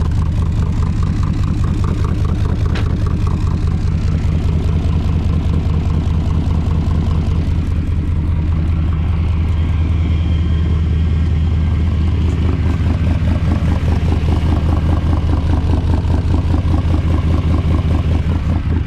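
1982 Camaro's 5.0-litre V8 running steadily through its newly fitted mufflers while the car is driven.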